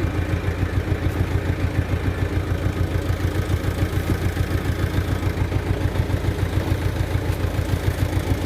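Mitsubishi Canter dump truck's diesel engine idling steadily, with an even, fast throb.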